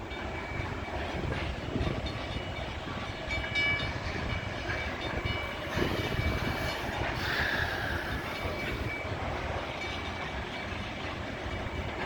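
A CN freight grain train passing at speed, its wheels rumbling steadily along the rails.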